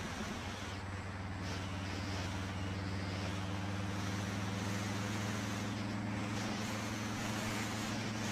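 Harley-Davidson Fat Boy's V-twin engine running at a steady cruising speed, with wind and road noise rushing over the helmet camera.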